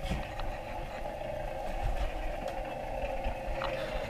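Motorcycle engine running steadily, heard from a riding video playing through a screen's speakers in the room.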